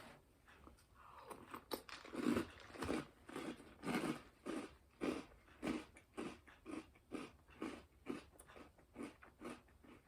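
Person chewing a mouthful of Cocoa Puffs cereal in milk, a steady run of soft crunching chews at about two a second that grows fainter toward the end.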